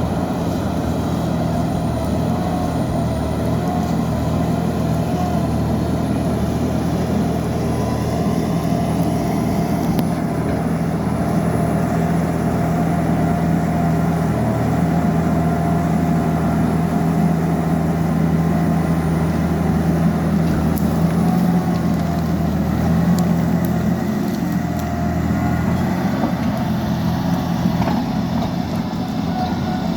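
Liebherr PR 754 crawler dozer's diesel engine running steadily, with a steady higher whine above the engine note.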